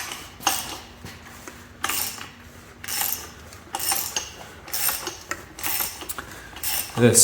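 Metal hand tools and engine parts clinking and scraping in irregular knocks, about one or two a second, during a small-block Ford V8 teardown.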